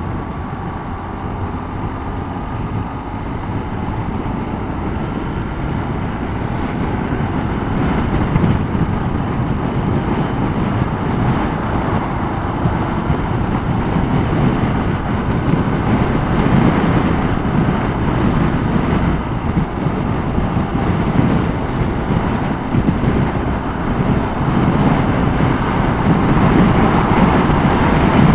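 Riding on a motorcycle: wind rushes and buffets the microphone over the engine running, and it grows gradually louder as speed builds.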